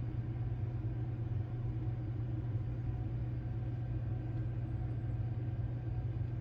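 Steady low hum with faint background hiss: room tone.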